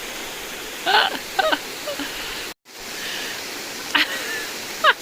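Steady rush of river water, with a few short, sharp calls with quick pitch glides over it. The sound cuts out completely for a moment a little past halfway.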